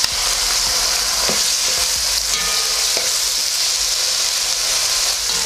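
Chicken liver and onions frying in hot oil in a pan, a steady sizzle, with a few light knocks of a spatula stirring them.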